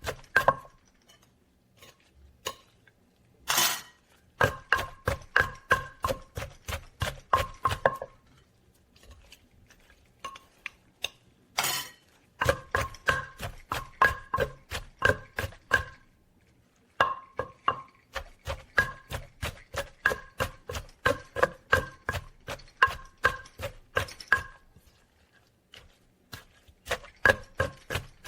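Rhythmic kitchen striking while papaya salad is prepared, about three to four strikes a second with a slight ring. It comes in runs of several seconds with short pauses, and two single heavier knocks stand out early on and near the middle.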